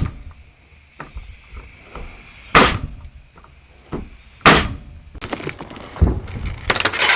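Nails being driven into a 2x4 shelf brace: two loud sharp strikes about two seconds apart, with lighter knocks between them and a rougher run of knocking and wood clatter near the end.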